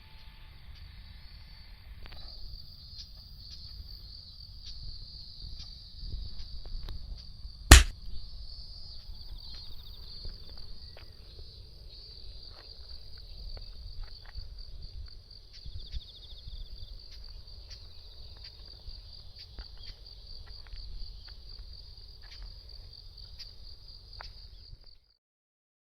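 A steady, high-pitched insect trill from about two seconds in until just before the end, over a low rumble. A single sharp knock about eight seconds in is the loudest sound.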